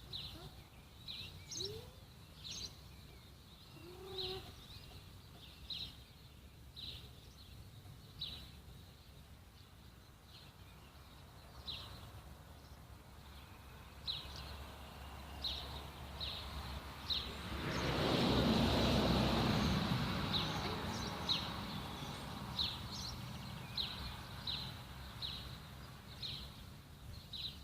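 A bird chirping, short high calls about once a second, over a steady low outdoor rumble. Partway through, a broad rushing noise swells up for a few seconds and then fades.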